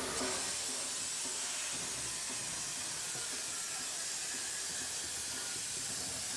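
Steam hissing steadily from the Peppercorn A1 steam locomotive 60163 Tornado, an even hiss with no exhaust beats.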